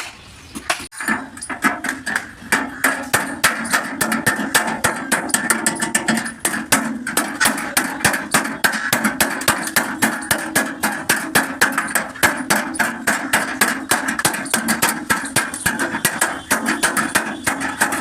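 Rapid, steady hammering on the sheet-steel panel of a Tata truck cabin during dent repair, several blows a second, starting about a second in. The struck panel rings between blows.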